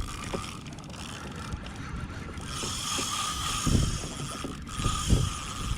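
Penn Spinfisher VI spinning reel's drag running as a hooked fish pulls line off, a steady mechanical ratchet sound, with a couple of low thumps about four and five seconds in.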